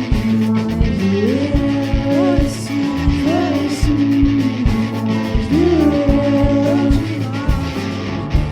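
Psychedelic rock band playing live: a sung vocal line with sliding notes over steady drum beats and sustained bass and keyboard notes.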